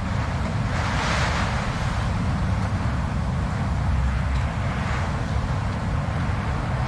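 Blizzard wind blowing steadily with a deep low rumble, a gust of hissing wind swelling about a second in and a smaller one near five seconds.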